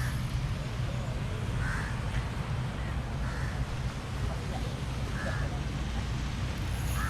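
A bird gives a short call over and over, about every second and a half to two seconds, over a steady low hum.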